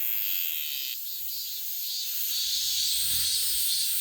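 Cicadas singing: a steady, high, hissing buzz, with a low rumble coming in near the end.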